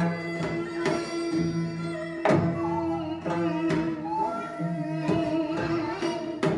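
Korean traditional music accompanying a hallyangmu dance: held melody notes from a traditional instrument ensemble over sharp drum strokes every second or so.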